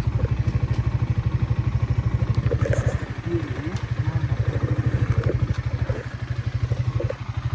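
Motorcycle engine with an aftermarket Scorpion exhaust idling steadily, a fast, even low throb from the exhaust pulses.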